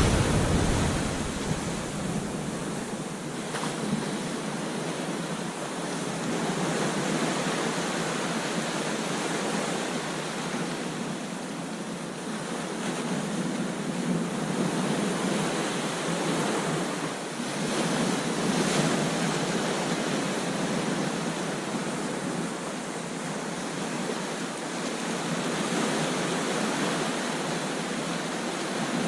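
Ocean surf breaking on a beach: a steady wash of waves that swells and eases every few seconds, with some wind on the microphone.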